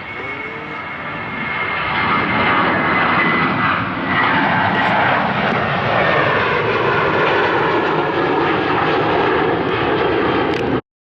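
Airliner engines passing close: the noise grows louder over the first two seconds, then holds loud and steady with a high whine and a slowly falling pitch as the aircraft goes by. It cuts off abruptly near the end.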